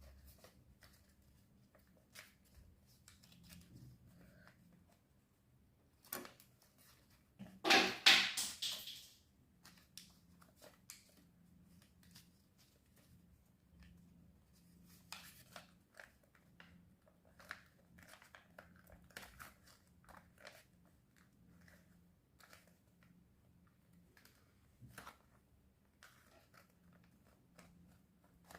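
Colored paper being handled and pressed into place while an origami paper boat is finished: scattered faint rustles and crinkles, with one louder crinkling rustle of about two seconds a quarter of the way in.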